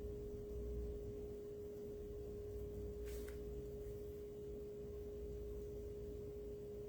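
A faint steady single-pitch hum runs through, over a low background rumble. About three seconds in there is one brief soft scrape.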